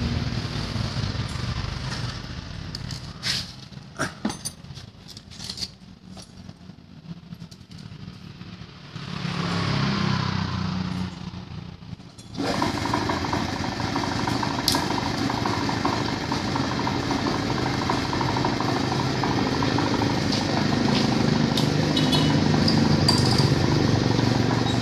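A motorcycle engine running steadily, coming in suddenly and louder about halfway through. Before that it is fainter, with a few light clicks and taps as small metal parts are handled.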